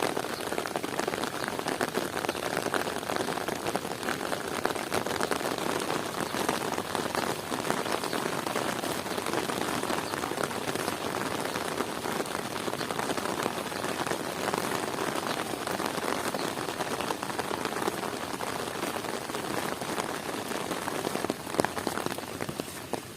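Heavy rain falling steadily, a dense, even patter of drops on the surfaces around, with one brief louder tap near the end.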